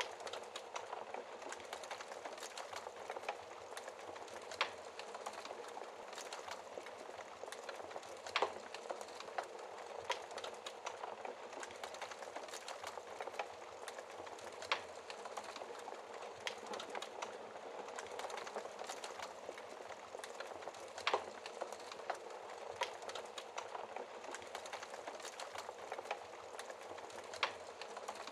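Wood fire crackling in a fireplace: a steady fine crackle of burning logs, with a sharp louder pop every few seconds.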